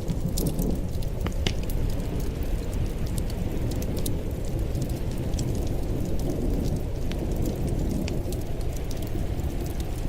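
Wood fire crackling: a steady low rumble of burning with many small, irregular pops and snaps scattered throughout.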